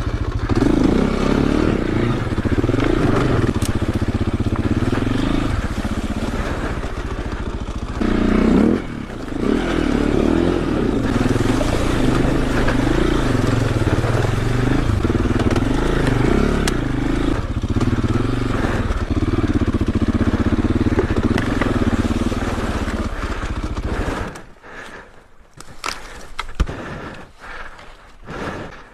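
Enduro motorcycle engine revving up and down repeatedly under load, its pitch rising and falling; it stops about twenty-four seconds in, leaving a few knocks and scrapes.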